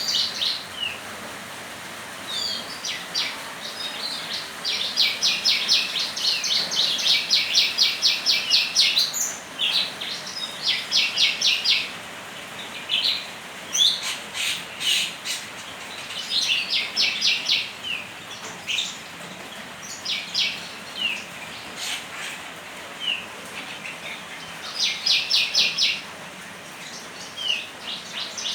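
Songbird singing in repeated bouts of fast, even trills with short chirps between them, over a steady background hiss.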